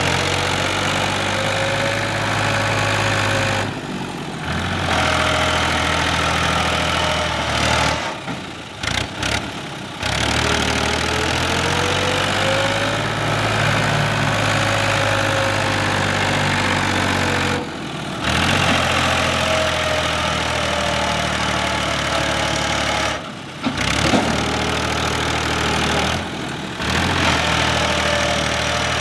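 Fiat 480 tractor's diesel engine running hard as it tries to haul a loaded trolley stuck in sand, its pitch rising and falling in places. The sound cuts off abruptly several times.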